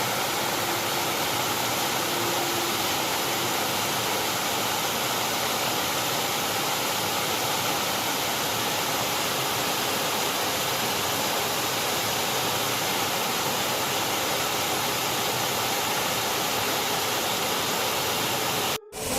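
Steady rush of a waterfall, an even noise with no change in level, broken off for a moment near the end.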